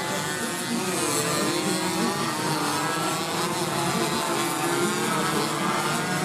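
Several two-stroke 125 cc underbone race motorcycles running hard, their engine notes overlapping and rising and falling in pitch as they race.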